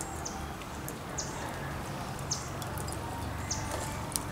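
A bird calling repeatedly, a short high chirp sliding downward about once a second, over a steady outdoor background with faint scattered clicks.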